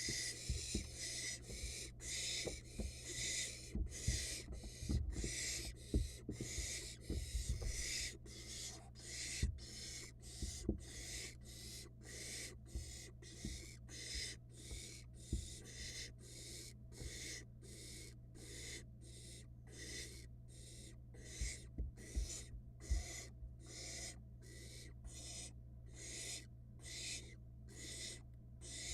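Barn owl nestlings hissing to beg for food: a long run of rasping hisses at about two a second, with soft low thumps in the first half.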